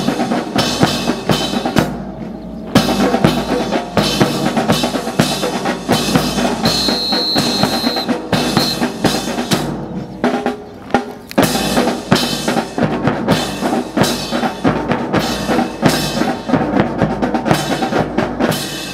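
Military drill drum corps beating a fast snare and bass drum cadence, pausing briefly twice. A short high steady tone sounds about seven seconds in.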